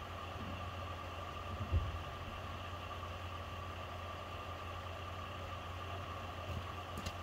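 Car engine idling steadily, a low hum with a light hiss, with one dull thump about two seconds in.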